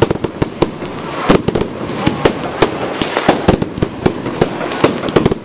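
Fireworks display: a rapid, irregular barrage of sharp bangs and crackles from bursting fireworks, several every second.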